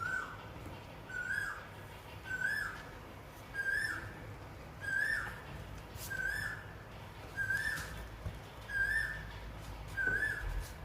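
A short whistled note that rises and falls, repeated very evenly about once every second and a quarter.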